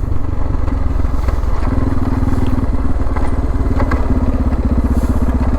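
Suzuki DR650's single-cylinder engine running at steady cruising speed, its exhaust pulses plain, with faint ticks of gravel.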